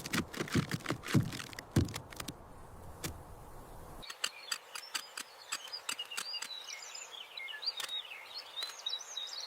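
A quick patter of taps and soft thumps for the first two seconds. Then, after a sudden change about four seconds in, birds chirping in rapid high notes, with scattered clicks.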